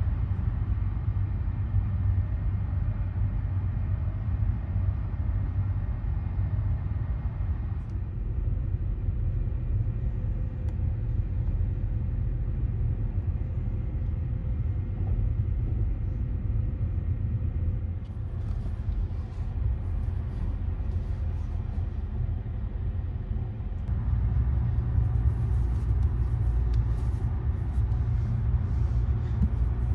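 Steady low rumble of the Sunrise Express sleeper train, a 285-series electric train, running at about 80 km/h, heard from inside the carriage. Light rustles and clicks join in the last third, and the rumble grows louder a few seconds later.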